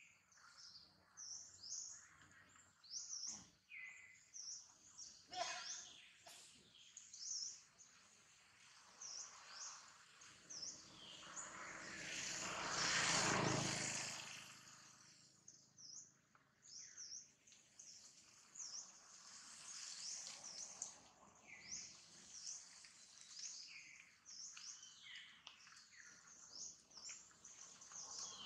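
Small birds chirping over and over in short, high calls. About halfway through, a broad rushing noise swells up and fades again, the loudest sound.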